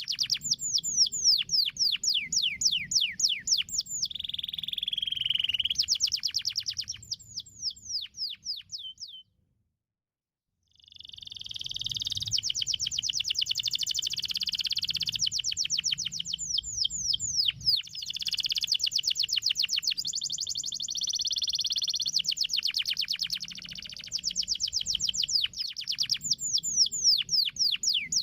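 Domestic canary singing: fast trills of quickly falling notes alternating with dense rolling passages. About a third of the way in the song cuts off to dead silence for a second and a half, then resumes.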